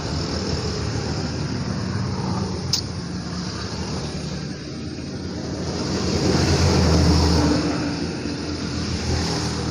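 Roadside traffic noise: a steady low engine rumble, swelling as a vehicle passes about six to eight seconds in, with a single sharp click just under three seconds in.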